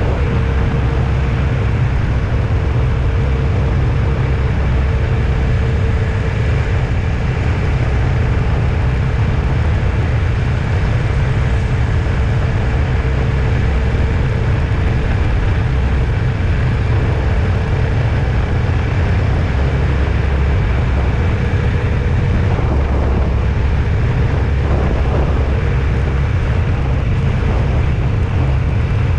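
Steady vehicle travel noise: a constant low road and engine rumble with a faint steady tone above it, as heard while riding along.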